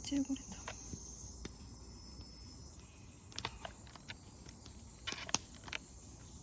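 Insects chirring steadily in a high-pitched band, with scattered light clicks and taps over it.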